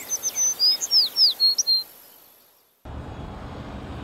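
A bird singing a quick run of about eight high chirps, each slurring downward, fading out by about two seconds in. Just before three seconds a steady low rumble of highway traffic starts abruptly.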